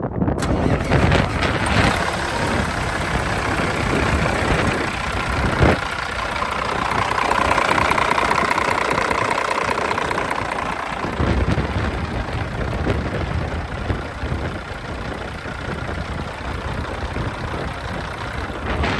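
Peterbilt 379 truck's diesel engine running steadily.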